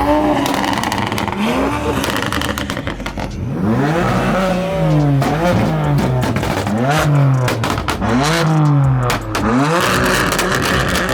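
An engine being revved over and over in short blips, roughly once a second, each rev climbing in pitch and falling back over a steady low idle.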